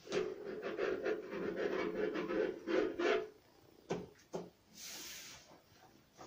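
Wallpaper being rubbed and rustled as it is smoothed by hand onto a wooden cabinet, for about three seconds. Then a couple of light knocks and a short hiss.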